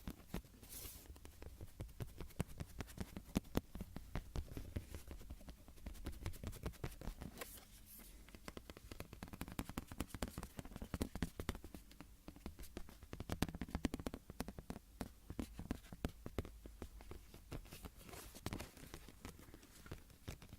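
Close-miked ASMR trigger sounds: rapid, irregular tapping and scratching on a small object, with many fast clicks.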